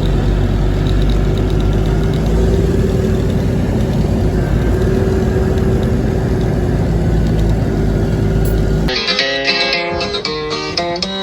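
A large truck engine running steadily at idle, a low rumble with a droning tone. About nine seconds in it cuts off abruptly to country music with plucked guitar.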